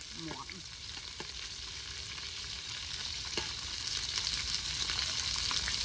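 Food sizzling and crackling as it fries in a hot pan, getting louder toward the end.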